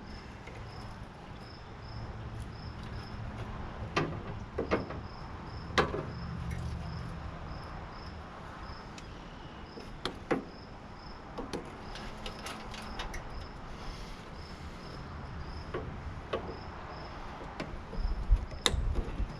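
Scattered sharp clicks and knocks of hand tools and metal parts being handled while a tankless water heater is taken apart. Behind them a cricket chirps steadily, about three short high chirps a second.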